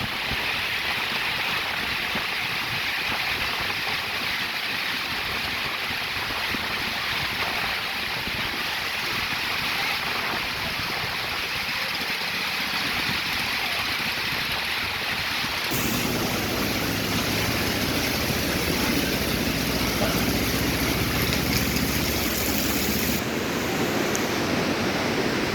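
Heavy rain pouring steadily, a dense even hiss. From about two-thirds of the way in, a low steady engine hum joins it.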